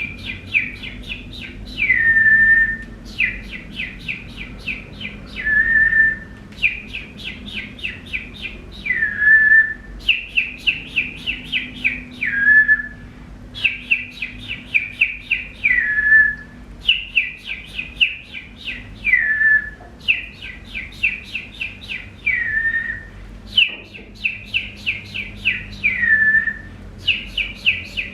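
Bird-like whistled song: the same phrase repeated about every three and a half seconds, each a quick run of high chirping notes ending in a falling slur onto a short held note.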